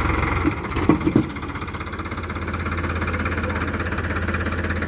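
Tractor diesel engine running with an even firing pulse. About half a second in, its low note drops and a couple of sharp knocks sound, then the engine builds back up to a steady run.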